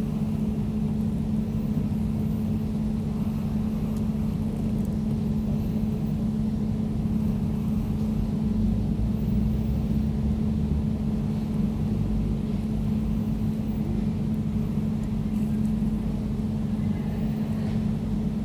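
Air conditioner running steadily, a constant low hum over a rush of airflow noise.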